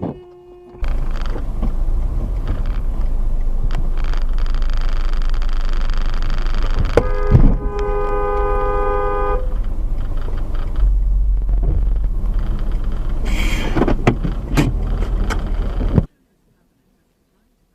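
Car driving with loud, steady road and engine rumble. About seven seconds in there is a sharp knock, then a car horn sounds for about two seconds. The sound cuts off suddenly near the end.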